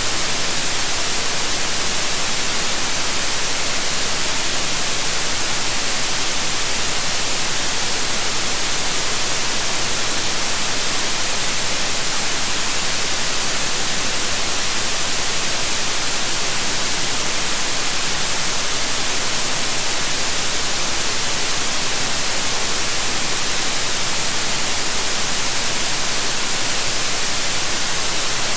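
Steady, unchanging white noise: an even hiss, brightest in the highs.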